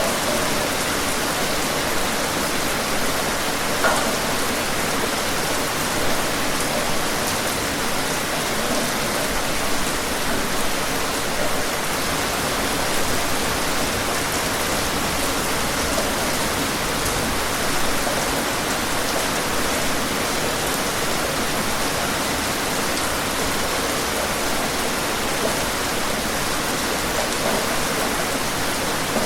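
Steady rain falling, an even wash of noise with now and then a single louder drop standing out.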